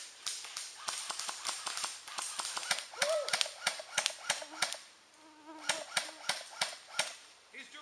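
Airsoft guns firing rapid, irregular strings of sharp shots, about four a second, easing off briefly about five seconds in before more shots follow.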